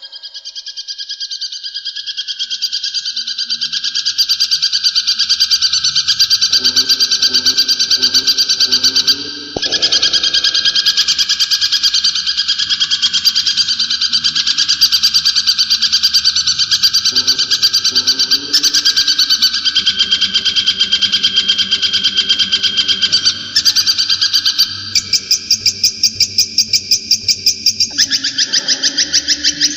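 Brown shrike (cendet) singing a long, rapid, continuous chattering song. Near the end it changes to a run of separate repeated notes, about three to four a second.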